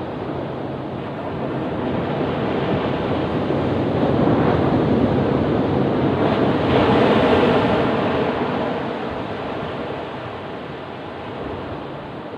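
Ocean surf: one wave swells over several seconds, is loudest a little past the middle, then washes back and fades.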